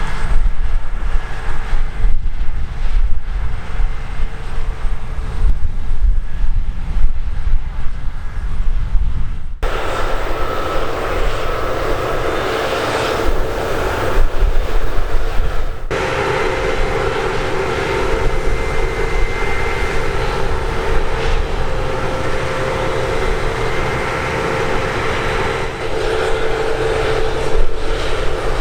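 Heavy diesel harvest machinery (combine harvesters and tractors) running steadily at work, with a steady engine and fan whine over a low rumble. The sound changes abruptly twice, about a third of the way and about halfway through.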